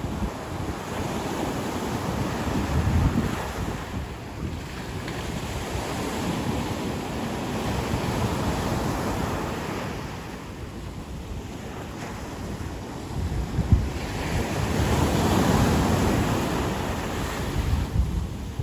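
Ocean surf washing onto the beach in slow surges, swelling and easing about every six seconds, with wind buffeting the microphone.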